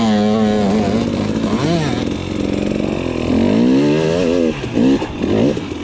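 Dirt bike engine revving up and down again and again as the throttle is worked in short bursts, the bike under load climbing over rock.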